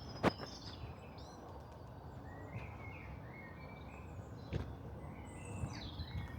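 Small birds chirping: many short, high notes, some sliding in pitch, over steady outdoor background noise. A few footsteps thud on the path, the sharpest just after the start and again around four and a half seconds in.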